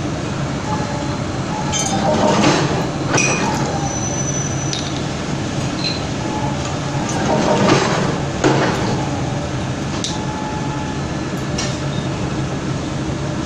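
Forging screw press running with a steady drive hum. Two louder surges with metallic clanks come about two seconds and about eight seconds in, and sharp metallic clinks fall between them.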